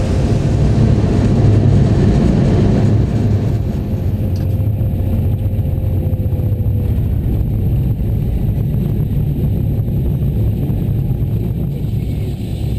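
Train running with a steady low rumble, a faint whine fading out about halfway through.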